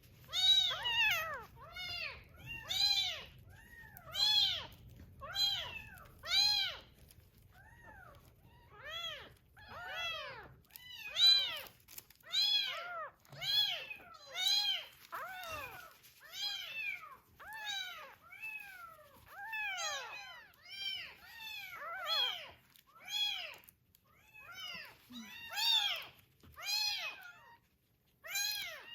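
Young kittens mewing over and over: high-pitched calls that each rise and fall in pitch, about one or two a second, sometimes overlapping.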